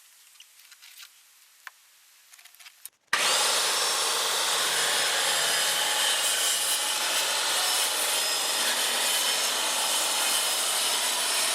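After a few faint clicks, a circular saw starts about three seconds in and cuts steadily through particle-board siding panel, trimming it along a marked line. Near the end its whine falls away as the blade winds down.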